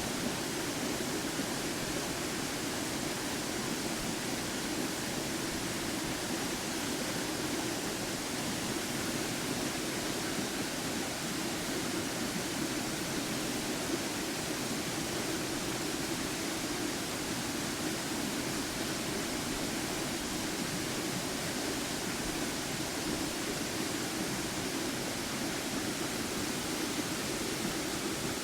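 Waterfall: a steady, even rush of falling water, loud and unchanging.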